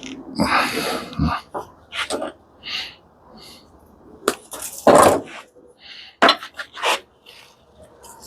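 A run of irregular metal knocks, clanks and clinks from parts and wiring of a commercial coffee machine being handled and pulled apart. The heaviest knock comes about five seconds in.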